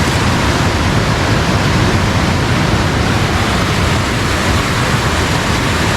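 Steady rush of fast-flowing water in a channel swollen after rain.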